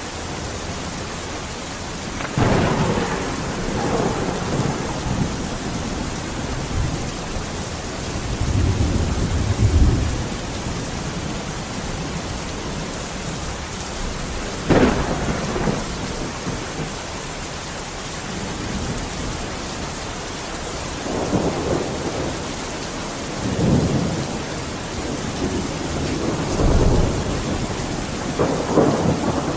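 Steady rain with thunder rolling in again and again: rumbles about two seconds in and around ten seconds, a sharp crack about halfway through, and more rumbles near the end.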